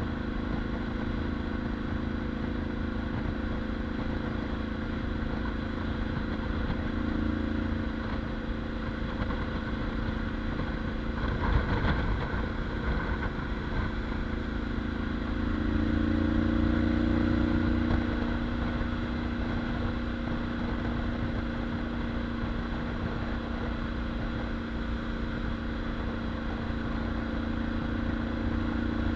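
Motorcycle with a Mivv titanium aftermarket exhaust idling steadily. There is a short louder burst about twelve seconds in. The engine is held at higher revs for about two seconds around sixteen seconds in.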